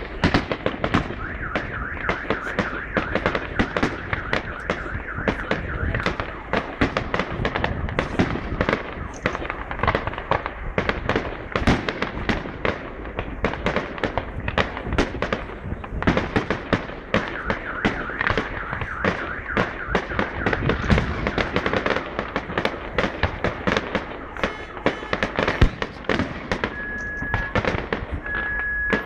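Fireworks display: a dense, continuous run of bangs and crackles, several a second. Near the end a steady high tone sounds in short pieces.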